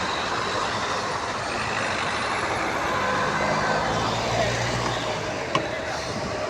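Street traffic noise, with a heavy vehicle's engine running past about halfway through and a single sharp click near the end.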